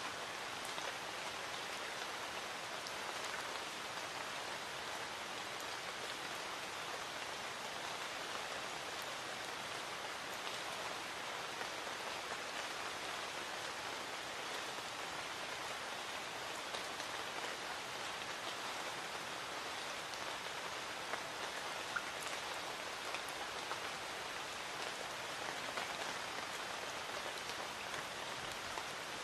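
Light rain falling steadily: an even hiss with faint scattered drop ticks.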